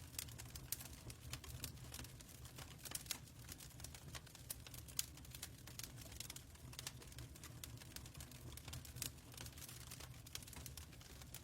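Faint fireplace fire crackling: irregular sharp pops and snaps over a steady low rumble.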